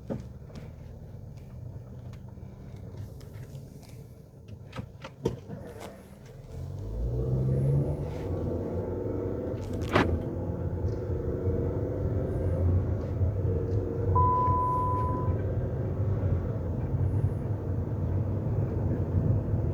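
2014 Chrysler 200 heard from inside the cabin: the engine idles with a few clicks. About six seconds in, the car pulls away, the engine rising in pitch, and then steady engine and road rumble follow. A sharp click comes about ten seconds in, and a short steady beep a few seconds later.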